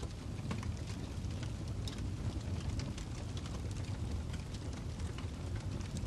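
Wood log fire crackling in a fireplace: frequent sharp pops and snaps over a steady low rumble of burning.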